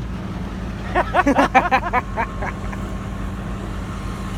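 Ford 8000 dump truck's engine running with a steady low drone.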